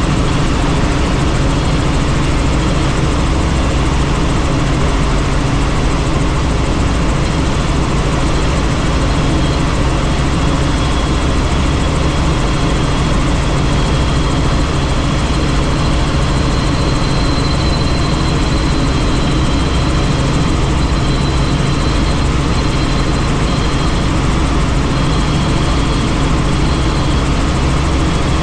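Helicopter in steady flight, heard from on board: constant rotor and engine noise with a deep hum, and a faint high whine that comes and goes in the middle.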